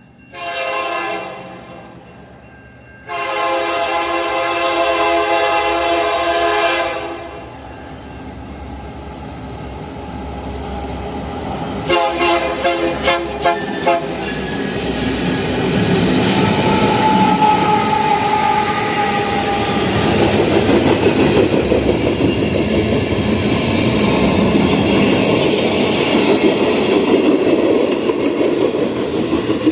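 Freight locomotive horn: a short blast, a long blast, then a quick string of short toots about twelve seconds in. Under the horn the rumble and clickety-clack of the passing freight train grows louder and keeps up to the end.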